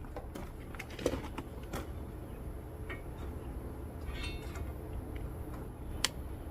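A few light, scattered clicks and taps over a low steady hum, from small parts and tools being handled while measuring.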